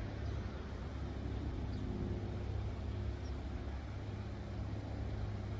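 A steady, low engine rumble with a faint hum, holding level throughout.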